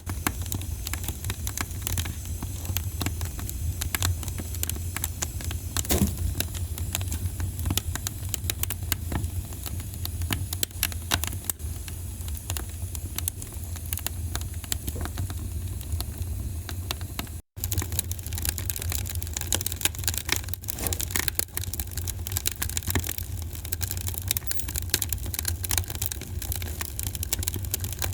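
Wood fire crackling in a fireplace: dense, irregular pops and snaps over a steady low rumble, cutting out for an instant about two-thirds of the way through.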